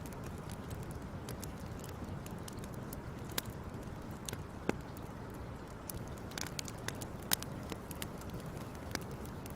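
Wood fire crackling: sharp, irregular pops and snaps over a steady low rumble of burning, with the loudest pops about three and a half and seven and a half seconds in.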